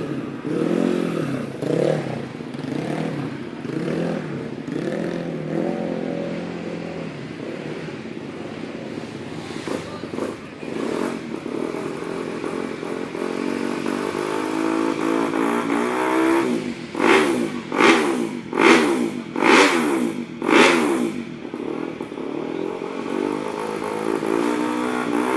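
Motocross bike engine running and revving up and down, then five quick throttle blips about a second apart in the second half.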